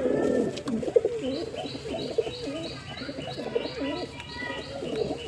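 Several pigeons cooing together, low overlapping coos throughout. From about a second in, another bird adds a short high chirp repeated about three times a second.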